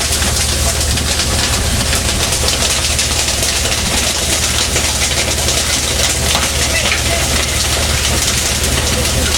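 Fishing boat's engine running steadily: a constant low drone with an even hiss over it.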